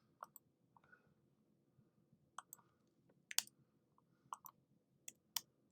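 Computer mouse clicking: about a dozen sharp, sparse clicks, several coming in quick pairs, over near silence.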